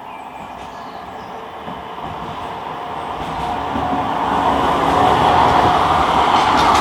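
A tram running on rails draws near, its wheel and running noise building steadily to a loud, close pass about two thirds of the way in.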